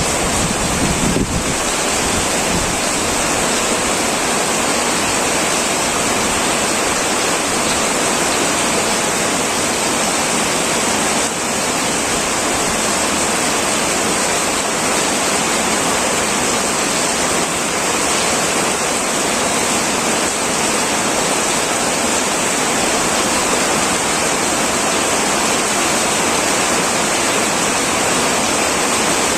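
Heavy rain pouring steadily onto a metal roof: a dense, even hiss with no let-up.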